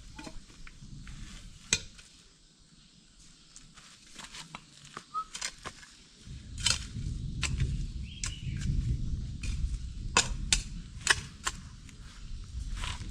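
Footsteps through dry vegetation: scattered sharp snaps and crackles, with a low rumble starting about six seconds in.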